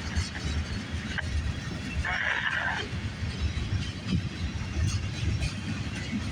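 Freight train cars rolling past on the track: a steady low rumble and rattle, with a brief higher-pitched noise about two seconds in.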